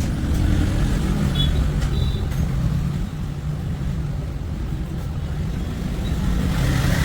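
Steady low rumble of a running motor-vehicle engine, with a few faint clicks.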